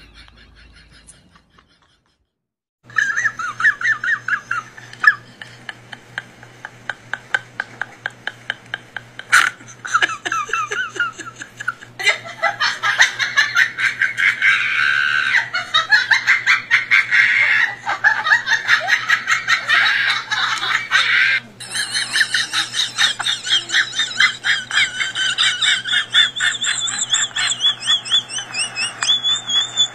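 A person laughing hard in fast, repeated bursts, starting about three seconds in after a brief silence, over a steady low hum.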